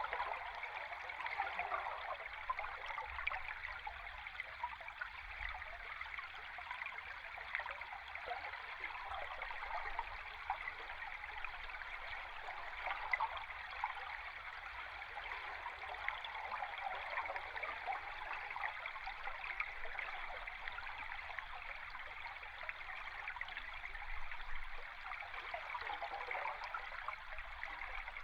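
Stream water recorded underwater: a steady, dense bubbling and fizzing of flowing water, without a low rumble.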